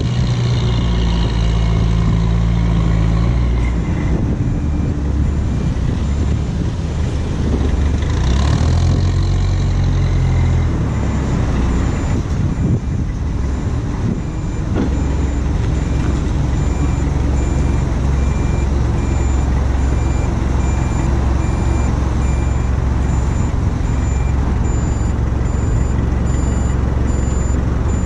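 Heavy diesel vehicle engine running under load, rising in level twice in the first ten seconds, with a reversing alarm beeping at an even pace from a few seconds in.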